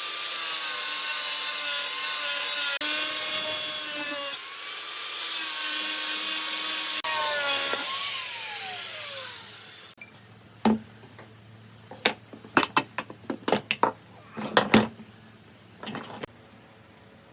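An electric power tool works wood with a steady high whine that dips briefly a few times under load. It is switched off about eight seconds in and its pitch falls as it winds down. A run of sharp wooden knocks and clicks follows.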